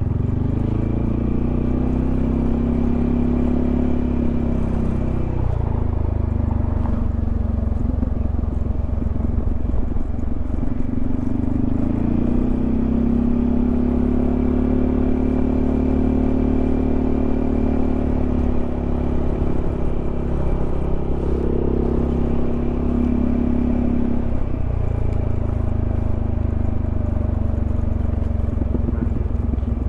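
Yamaha XMAX 300 scooter's single-cylinder engine running under way, its pitch rising as it speeds up, holding, then dropping as it slows, twice over.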